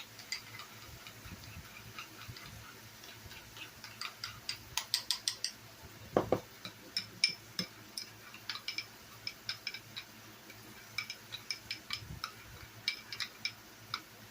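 A spoon stirring mayonnaise and ketchup together into fry sauce in a small dish, clicking against the side in quick runs of light ticks.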